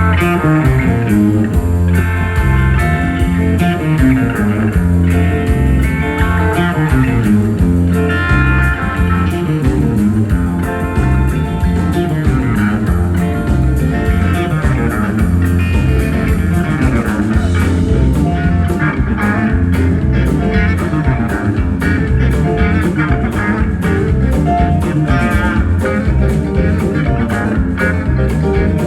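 Live country-rock band in an instrumental jam: electric guitar playing quick runs of notes over bass guitar and drums.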